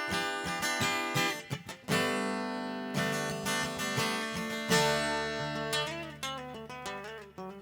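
Acoustic guitar strummed in an instrumental passage of a song, chords ringing between strokes.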